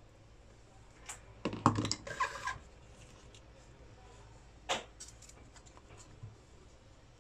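Small tools and parts handled on a workbench: a cluster of clicks and knocks between about one and two and a half seconds in, then one more sharp click near the five-second mark.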